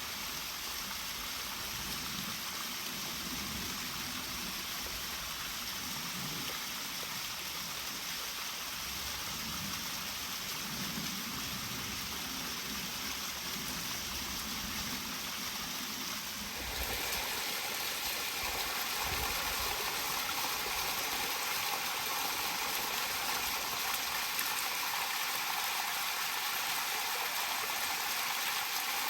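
Steady rushing sound of water. It jumps to a louder, fuller rush suddenly about 17 seconds in.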